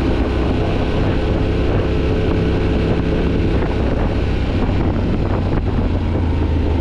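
Yamaha Ténéré 700's parallel-twin engine running at steady revs under way, its used replacement engine on a test ride, with wind buffeting the camera's built-in microphone.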